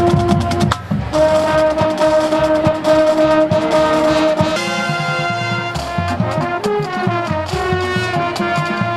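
Brass band music: trumpets and trombones holding long notes over a steady drum beat, the chord changing about a second in and again about halfway through.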